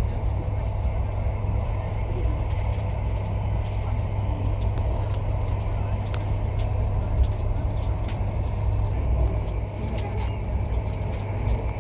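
Steady low rumble of a vehicle moving along the road, with scattered light clicks over it.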